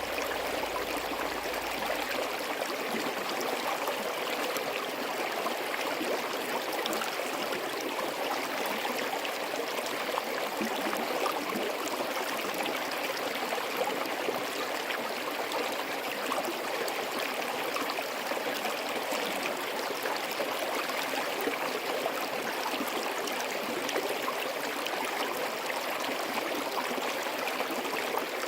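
Forest stream flowing: a steady, continuous babble of running water.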